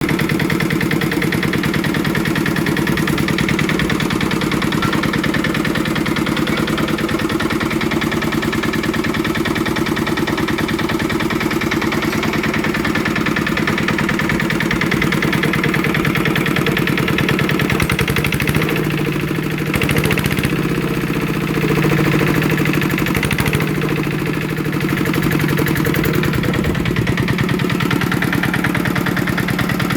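Yanmar diesel engine running steadily at idle, with fast, even firing pulses.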